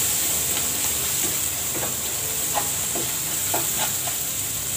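Onion, green chilli, egg and ground spices sizzling in hot oil in a pan while being stirred, the spice mix being sautéed down. A steady frying hiss carries scattered short scrapes from the stirring.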